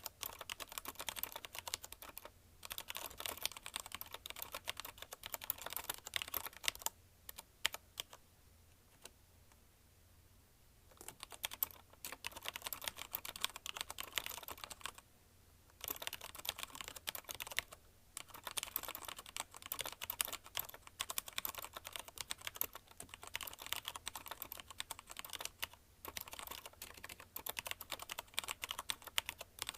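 Fast continuous typing on a CM Storm Quick Fire TK mechanical keyboard with linear Cherry MX Red switches: rapid clacking keystrokes in bursts, with a pause of about four seconds around a quarter of the way in and a few shorter breaks later.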